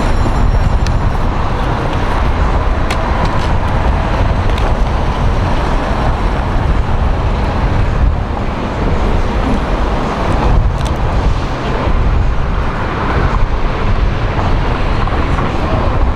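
Steady road traffic noise, a continuous low rumble, with a few sharp clicks and rustles from a charger package being opened by hand.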